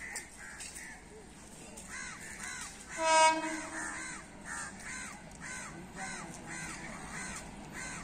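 Birds calling: a crow gives one loud caw about three seconds in, over a run of short rising-and-falling chirps from another bird, repeated about three times a second.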